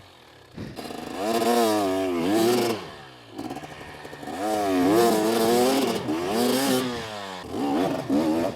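Two-stroke 250 cc dirt bike engine revved hard in three bursts, the pitch wavering up and down between them, as the rider fights for traction on a steep rocky climb.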